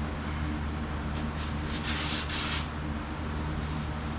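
Hand sanding a painted vehicle body panel with sandpaper, a few short rubbing strokes about a second and a half in, to take out a paint run. A steady low hum runs underneath.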